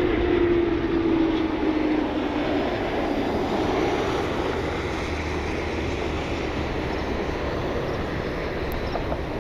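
Jet airliner's engines as the plane comes in on arrival: a steady roar, with a hum that slowly drops in pitch over the first few seconds as it goes by.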